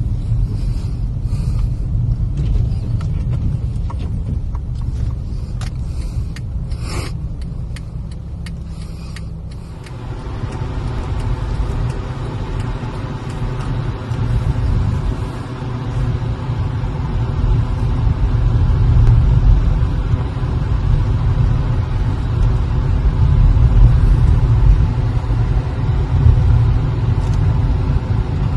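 Car rumble heard from inside the car. For the first ten seconds or so, scattered clicks and scrapes sound over it. Then a steady hum with several tones comes in and grows louder toward the end.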